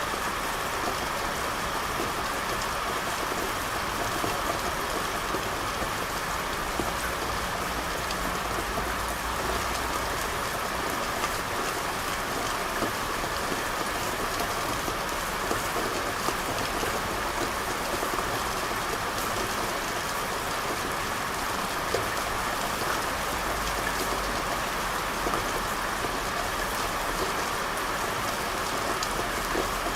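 Steady rain falling on a street, with scattered drops clicking through it and a faint low rumble that swells and fades twice.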